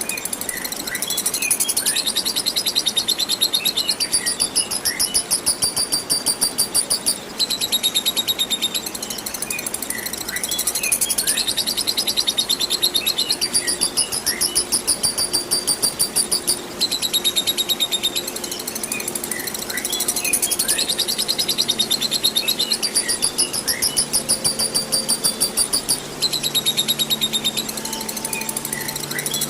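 Lovebird singing its long chattering 'ngekek' song: rapid, high, evenly repeated notes in runs lasting several seconds, mixed with short downward chirps. The song breaks off briefly about 7, 17 and 26 seconds in.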